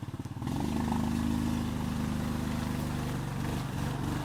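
Small off-road vehicle engine picking up revs about half a second in, then running steadily at higher revs.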